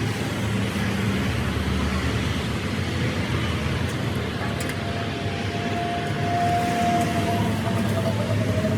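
A vehicle engine running steadily, with a thin, steady whine joining in about halfway through.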